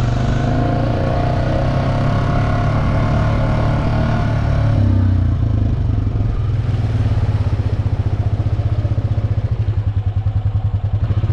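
Honda Rancher 420 ATV's single-cylinder four-stroke engine running. Its note changes about five seconds in and then settles into a low, even pulsing.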